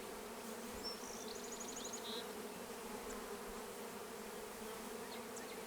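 Many honeybees buzzing steadily around an open hive just stocked with a package of bees. A few faint high chirps come through about one to two seconds in.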